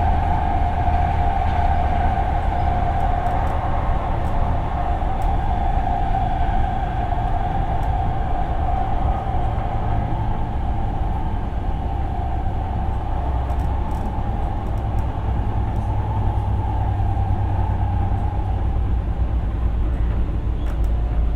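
Siemens P2000 light rail car running at speed: a steady whine from its traction motors over a low rumble. The whine fades over the last few seconds.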